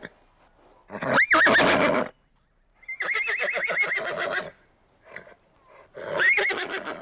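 Horse whinnying three times, with short pauses between the calls. The middle whinny is the longest, a high, rapidly quavering call.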